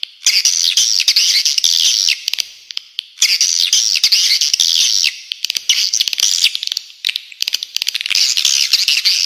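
Spiderhunter (pijantung) and swiftlet (walet) calls: dense, rapid, high-pitched chattering in bursts of about two seconds with short breaks between them.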